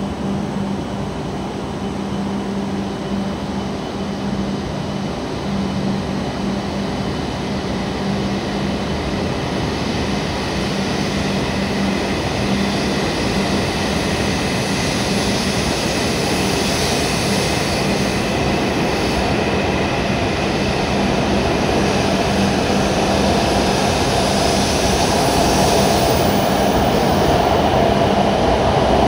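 W7 series Shinkansen train pulling out of the station and accelerating along the platform. Its running noise builds steadily over a steady low hum.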